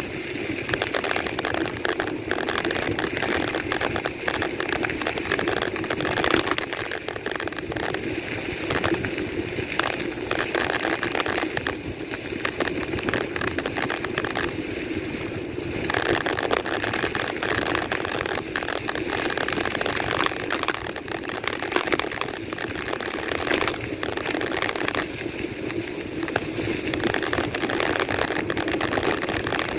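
Continuous rumble and crackle of a bike being ridden over rough ground, with tyres running over the surface and dense clicking and rattling throughout.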